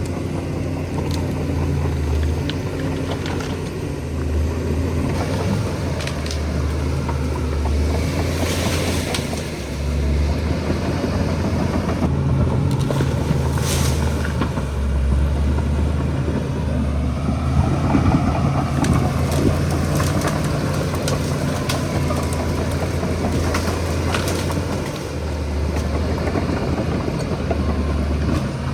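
Shantui DH17C2 bulldozer's diesel engine running, its low drone swelling and easing as the load changes, with occasional sharp cracks.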